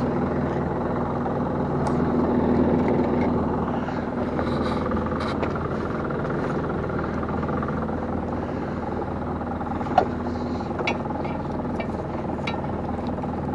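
Small fishing boat's engine running steadily with a low hum. A few light clicks and knocks sound over it, the sharpest about ten seconds in.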